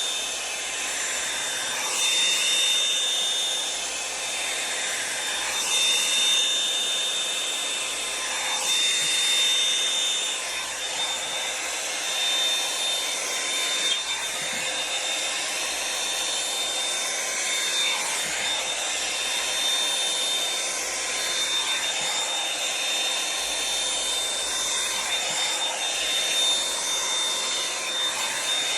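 Revlon One-Step hot-air brush running steadily: rushing air with a thin high motor whine, the sound shifting every couple of seconds as the brush is drawn through the hair.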